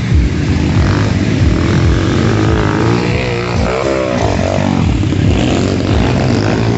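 Motocross dirt bike engines running at race revs, with the pitch swinging up and down about halfway through as a bike revs through a section.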